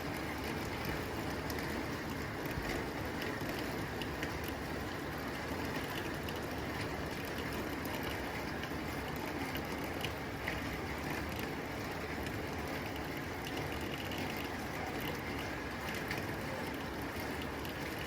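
Steady rain drumming on a tin roof, a dense even patter with scattered sharper drop ticks.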